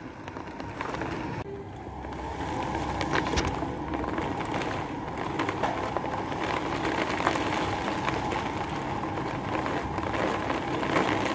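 Rainstorm heard from a window: a steady rushing of rain and wind with scattered taps and clicks, building over the first few seconds.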